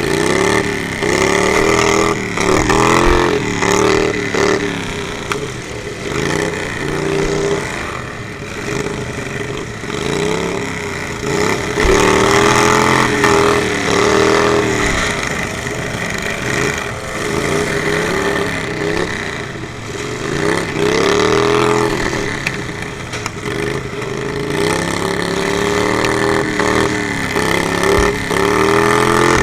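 Several riding lawnmower engines revving up and down over and over, their pitches rising and falling and overlapping, with a few short low thumps.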